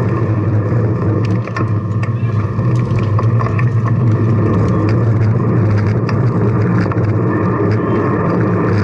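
Steady street noise from riding in city traffic: a constant low hum with many scattered clicks and rattles.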